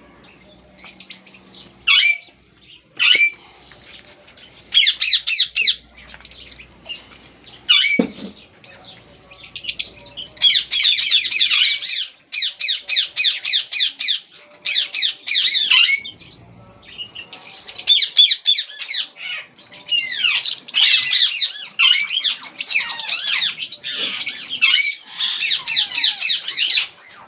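Ringneck parakeets squawking: a few separate sharp, high calls at first, then long runs of rapid, harsh, repeated calls from about ten seconds in.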